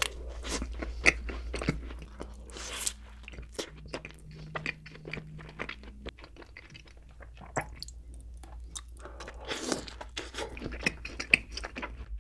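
Close-miked eating of donuts: biting and chewing, a dense run of short wet clicks and crunches of the mouth, over a steady low hum.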